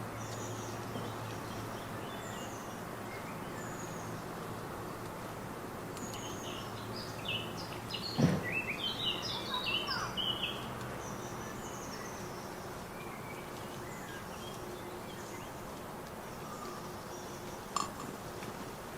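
Small garden birds chirping on and off over steady background noise. About eight seconds in comes a brief flurry of calls with a single loud knock, and a sharp click comes near the end.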